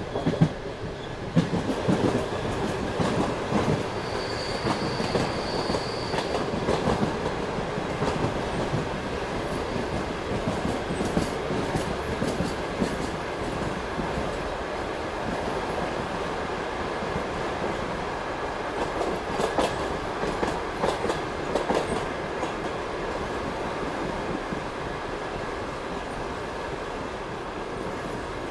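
Freight train wagons rolling past, wheels clattering over the rail joints, with a brief high wheel squeal about four seconds in. The clatter eases toward the end.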